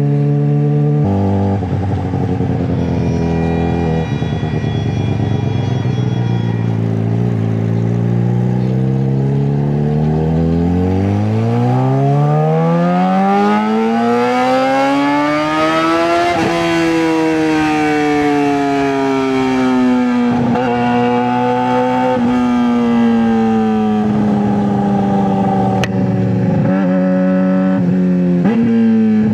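Straight-piped 2009 Suzuki GSX-R600 inline-four engine: its revs sink low, then climb smoothly for about six seconds to a high pitch a little past halfway. They then ease back down, broken by several brief sharp dips.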